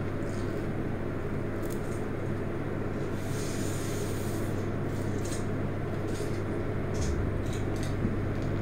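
Mouth sounds of eating telur gulung, Indonesian rolled egg on bamboo skewers: scattered wet clicks and smacks as the egg is pulled off the stick and chewed, with a brief slurp-like hiss a few seconds in. A steady low hum runs underneath.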